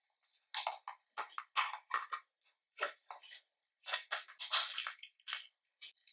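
Slime being squished and kneaded by hand, with irregular bursts of wet crackling and popping.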